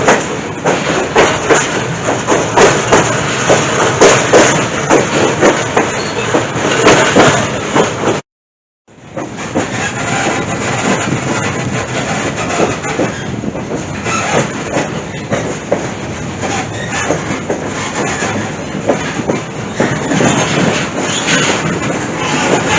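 Passenger train running on the rails, heard from aboard the coach: a steady rumble with clickety-clack and sharp knocks and rattles, busiest in the first part. The sound drops out for a moment about a third of the way in, then resumes as a steadier running noise.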